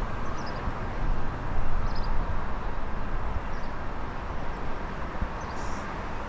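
Steady low rumble and hiss of outdoor ambience, typical of a railway station where trains and traffic pass, with faint short high chirps about every second and a half.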